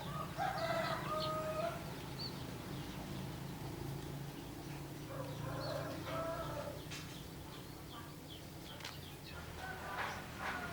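Rooster crowing twice in the background, each crow a drawn-out call of about a second and a half, with short high chirps of small birds in between and a low steady hum underneath.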